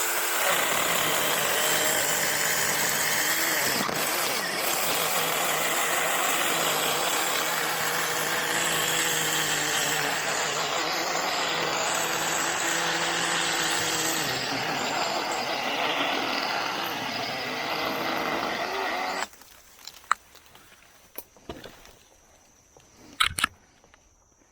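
Cordless 6-inch mini chainsaw on a DeWalt battery, cutting steadily through a Chinese tallow tree trunk for about nineteen seconds, then stopping suddenly. A few sharp snaps and knocks follow.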